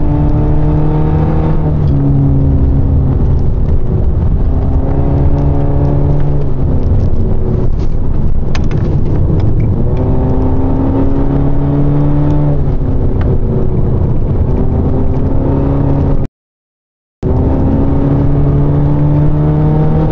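Supercharged Scion tC's four-cylinder engine heard from inside the cabin, climbing in pitch in repeated pulls and dropping back between them, over steady road noise. The sound cuts out completely for about a second near the end.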